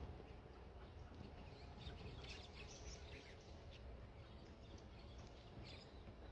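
Small birds at a feeder chirping faintly in short calls, clustered about two to three seconds in and again near the end, over a low steady background rumble.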